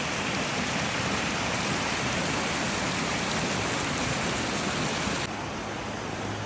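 Steady rush of falling water from a creek waterfall. About five seconds in it cuts to a slightly quieter rush with a low steady hum underneath.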